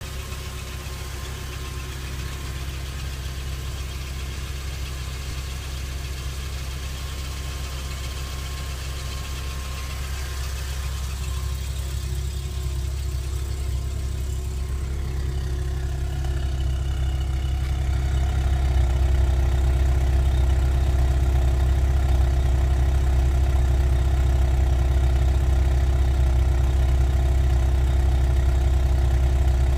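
Volkswagen Golf Mk3 engine idling steadily while cold. About two-thirds of the way in the exhaust note grows louder as it is heard close at the tailpipe.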